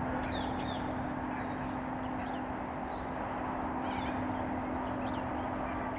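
Distant Boeing 747 jet engines making a steady drone, with birds chirping over it several times.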